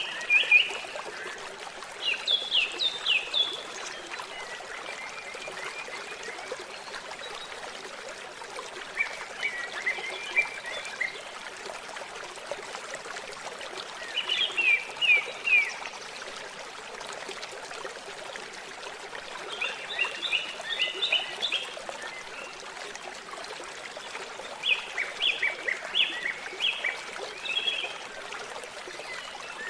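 Steady trickling, running water, with a small bird singing short phrases of several quick high notes every few seconds.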